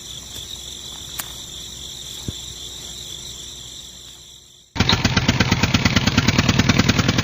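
Steady high-pitched insect chirping, then about two-thirds of the way through a small engine starts up abruptly and runs with a loud, fast, even chugging of about ten beats a second.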